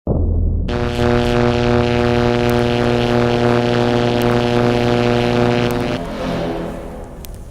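CB radio receiver audio: a steady, unchanging buzz over radio static comes on abruptly, then weakens into fainter static about six seconds in.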